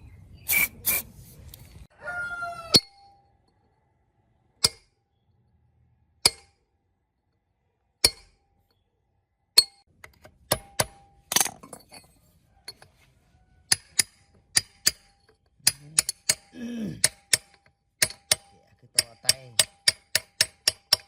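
Sharp metal-on-metal clinks and taps from tools and parts being worked on an old diesel engine, many leaving a short ring. They come one every second or two at first and quicken to several a second near the end.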